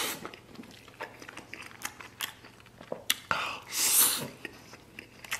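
Close-miked mouth sounds of a person eating a mouthful of wide noodles and braised pork: wet chewing and lip smacks in quick irregular clicks, with a louder breathy burst about four seconds in.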